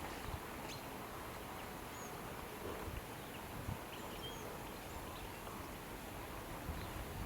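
Steady outdoor background noise with a few short, faint bird chirps, and a couple of soft low thumps near the end.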